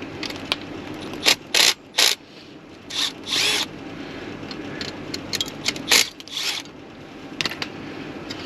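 Hand ratchet clicking in short bursts with pauses between them, working at a bolt that will not come off.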